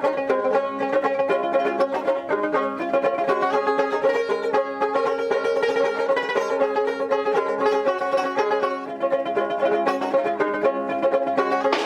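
Dotara, the fretless Bengali folk lute with a goat-skin-covered body, played with quick plucked notes over steady ringing low notes.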